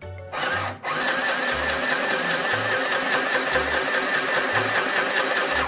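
Portable electric sewing machine running under its foot pedal: a loud, steady, fast whir of the motor and needle stitching the cloth. It starts shortly in, falters briefly under a second in, then runs evenly until it stops near the end.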